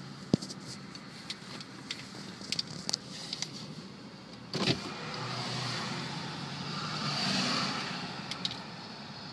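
Steady car and road noise, with scattered light clicks, a knock about four and a half seconds in, and a swell of noise that rises and falls, loudest about seven and a half seconds in.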